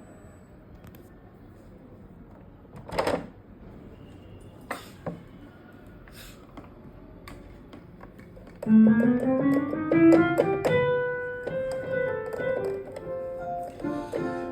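Roland XPS-10 keyboard played with a piano-like voice: a quick rising run of notes, then more notes held and repeated. Before the playing begins, about two-thirds of the way in, there are several seconds of low background noise with a few knocks.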